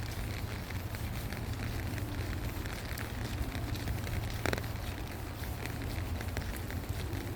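Rain falling, a dense patter of many small drops over a steady low rumble, with one sharper tap about four and a half seconds in.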